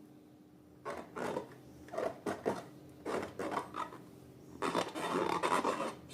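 Slime being worked and mixed: rasping, rubbing strokes. They come in short separate strokes at first, then run on continuously near the end.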